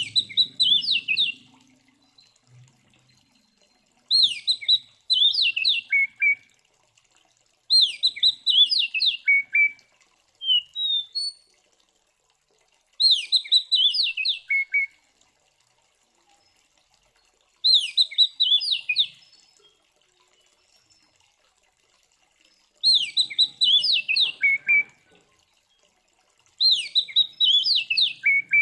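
Oriental magpie-robin (kacer) singing a short, loud phrase again and again, about seven times, with pauses between. Each phrase is a quick run of high whistled notes that drop in pitch toward the end.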